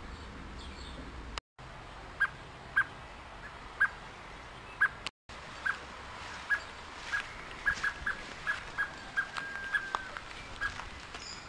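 A bird calling with short, sharp single notes at one pitch, repeated irregularly and coming faster in the second half, with one slightly longer note near the end, over a steady hiss. The sound cuts out briefly twice.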